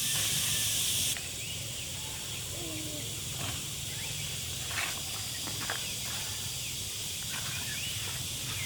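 Outdoor ambience: a loud steady hiss stops abruptly about a second in. After that, short high bird chirps come again and again over a low background hum, with a few light clicks.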